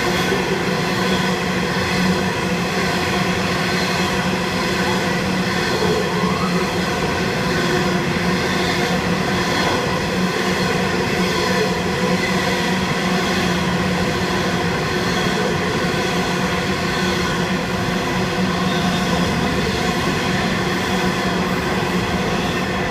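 Diesel-hauled freight train passing, a steady engine drone over the rolling noise of the train.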